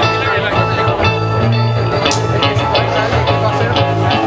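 Rock music with electric guitar, bass and drums, with a cymbal crash about two seconds in.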